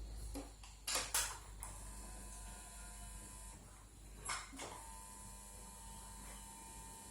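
A few sharp clicks and knocks from hand tools during capacitor replacement on a circuit board: two close together about a second in and another about four and a half seconds in, over a steady low hum.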